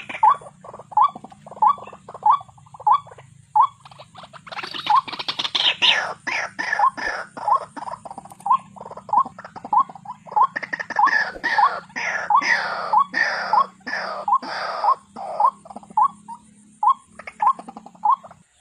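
White-breasted waterhen call played as a trap lure: a short note repeated about twice a second throughout, with a louder run of longer calls that slide down in pitch from about four to fifteen seconds in. A low steady hum runs under it.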